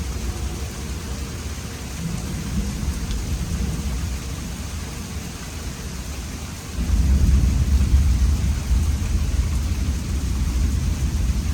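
Steady rain with a low rumble of thunder that swells up suddenly about two-thirds of the way through and carries on.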